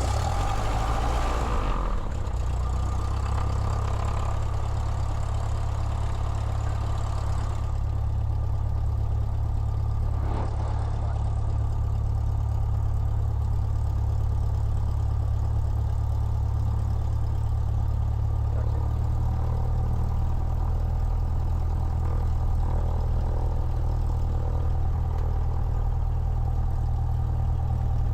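Cessna 172's piston engine and propeller running at a steady idle just after a cold start, with a noisier stretch in the first couple of seconds as it settles.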